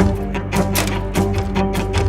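A dense, irregular swarm of small finger taps on an instrument body, multiplied and scattered by real-time swarm software, over steady low sustained tones.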